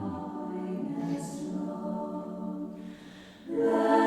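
Voices reciting liturgical prayer on a steady, chant-like pitch, with a short break about three seconds in before louder voices resume.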